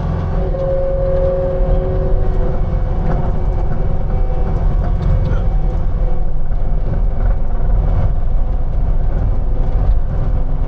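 Skid steer loader's diesel engine running steadily while the machine works, a deep rumble with a faint whine early on.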